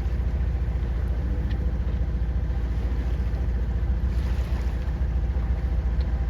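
A sailing yacht's inboard engine running steadily, a low even rumble with a faint hum above it.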